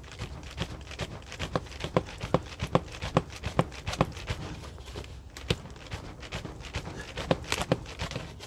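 Wood fire crackling, with sharp irregular pops several times a second.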